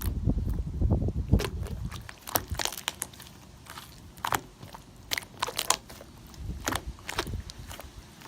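Cloud slime being handled by hand, giving irregular crisp crackles and pops, with low muffled handling thuds in the first two seconds.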